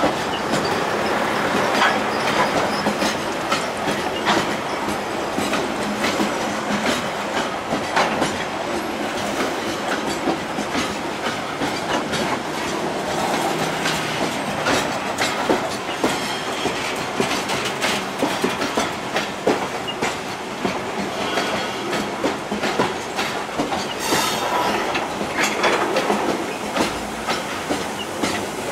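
A long freight train of loaded coke wagons rolling past close by: steady rumble of the wagons with wheels clacking over rail joints in a quick, uneven run of clicks. A brief high hiss rises over it near the end.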